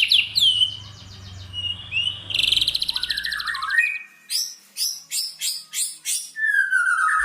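A small sunbird, the 'kolibri ninja' or konin, singing shrill and loud: high chirps and a fast buzzy trill, then a run of sharp down-slurred notes about three a second.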